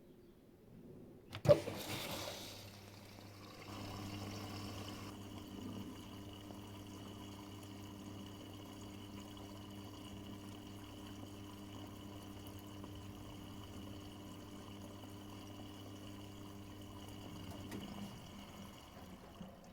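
Miele Professional WS5436 washing machine taking in water: a sharp click about a second and a half in, then water rushing in with a steady hum that cuts off about two seconds before the end.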